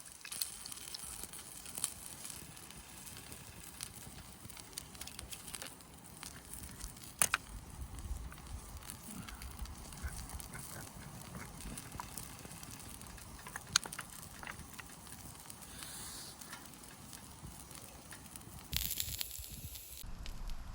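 Wood campfire crackling, with a few sharp pops standing out.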